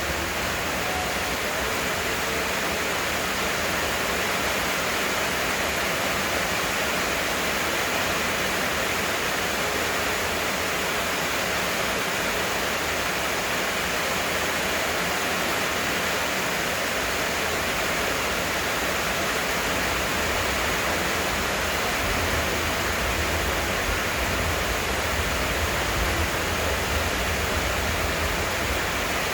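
Heavy rain falling steadily, a dense, even hiss with no breaks. A deeper low rumble comes up in the last several seconds.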